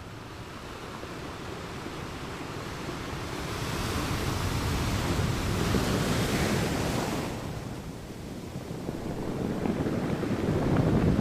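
Wind blowing in gusts. A broad hiss swells a few seconds in and fades, then a lower, rumbling gust builds near the end.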